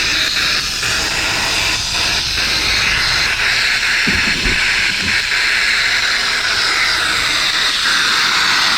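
Air hissing steadily out of a 4x4's tyre through a tyre deflator, letting the pressure down for a dirt road, with a few faint knocks about four to five seconds in.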